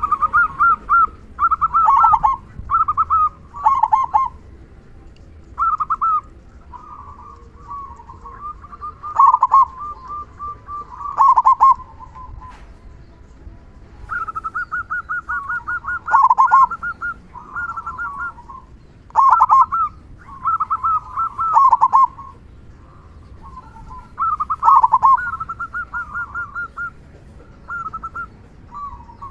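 Zebra dove (perkutut) singing: phrase after phrase of quick staccato coos, some as fast runs of even notes, most ending in a louder, lower drawn-out note, the 'kung' of the song.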